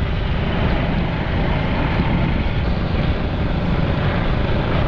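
Honda 150cc dirt bike engine running steadily under way, with a constant rush of wind and road noise.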